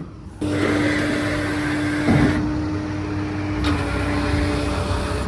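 A vehicle motor running steadily with a constant hum, starting abruptly about half a second in.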